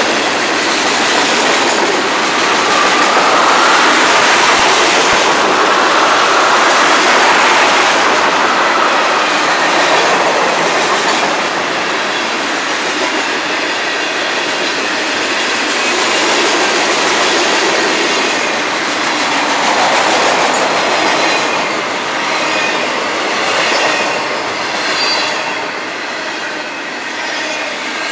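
Loud, steady noise of a freight train's cars rolling past: steel wheels running on the rails. A thin high wheel squeal shows through in the second half.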